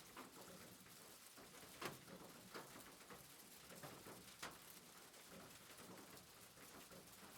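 Faint soft rain: a steady hiss with a few louder drop-like ticks scattered through it.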